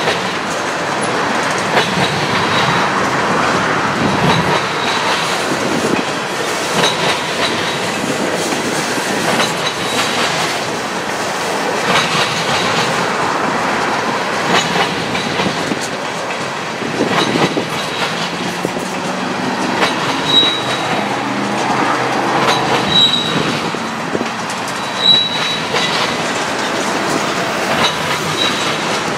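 Freight train of tank cars rolling past, its steel wheels clacking over rail joints over a steady rumble. Short, high wheel squeals come now and then, more often in the second half.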